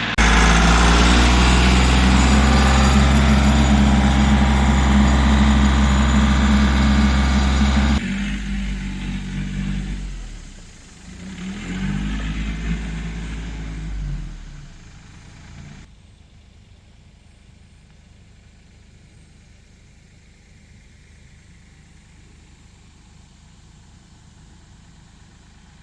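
Kioti CK3510 compact tractor's diesel engine running loud and steady for about eight seconds. It then turns uneven, dropping briefly and rising again before fading away, leaving only a faint steady background.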